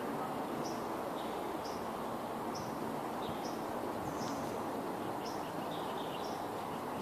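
A bird chirping, short high calls repeated about once a second, with a few lower chirps later on, over a steady background hiss of outdoor noise.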